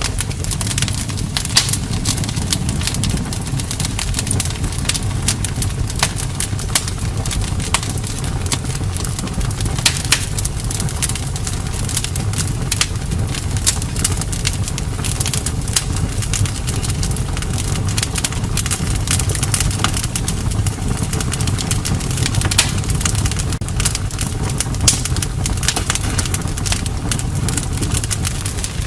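Campfire burning: frequent irregular sharp crackles and pops of burning wood over a steady low rush of the flames.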